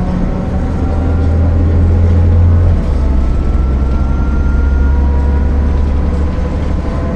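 MAN NL 262 city bus running under way: a deep engine drone with a whine whose pitch climbs slowly, and an abrupt change in the low drone about three seconds in.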